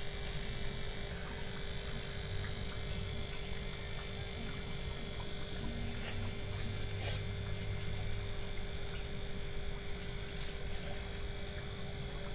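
Steady electrical hum with a few faint clicks and taps.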